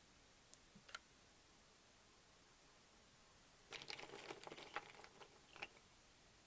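Faint handling noises: a couple of light clicks, then about two seconds of small crackling and tapping, as of light materials being handled by hand.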